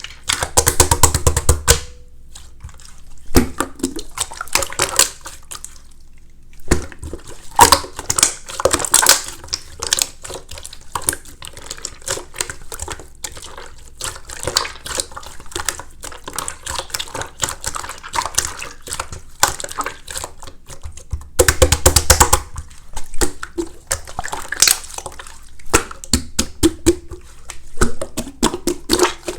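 Wet slime being squeezed, pressed and folded by hand, giving dense irregular sticky clicks and squelching pops, with louder spells of squishing near the start and about two-thirds of the way through.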